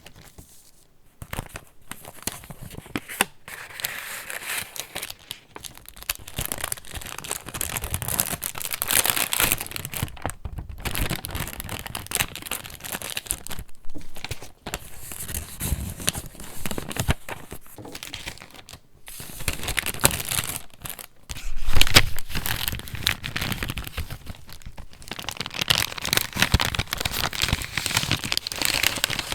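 Paper pages of a handmade junk journal rustling and crinkling as they are handled and turned, in an irregular run of crackling strokes with short pauses, loudest a little after twenty seconds in.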